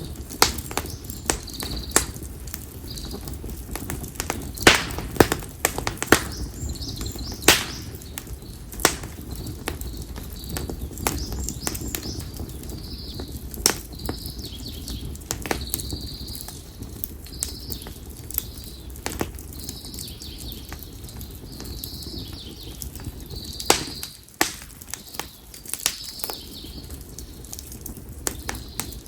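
Split konara oak firewood burning in an open campfire, crackling with sharp irregular pops, a few of them loud, over a steady low rumble of flame. A bird repeats a short high call about once a second throughout.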